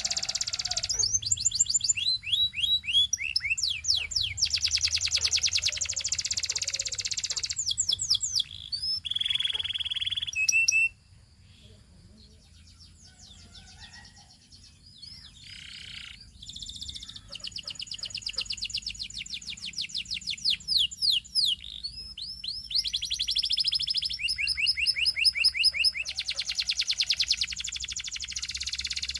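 Domestic canary singing in fast trills and rolls of rapidly repeated notes. The song breaks off suddenly about eleven seconds in and picks up again some six seconds later.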